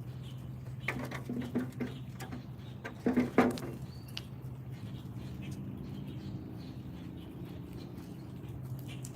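Small animals feeding at a backyard feeder: bursts of scratching, pecking and clicking, the loudest about three seconds in, over a steady low hum.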